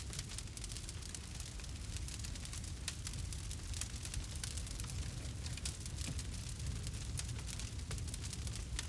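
Campfire burning: dense, irregular crackling and popping of the burning wood over a steady low rumble.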